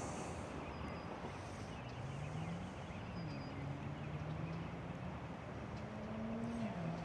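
A motor engine running in the distance, its pitch rising and falling and dropping in a step near the end, over a steady rushing hiss.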